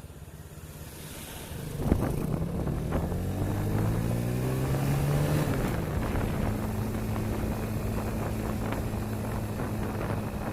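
Motorcycle engine picking up suddenly about two seconds in and rising in pitch as it accelerates. About halfway through it drops at a gear change, then runs steadily at cruising speed, with wind noise on the microphone.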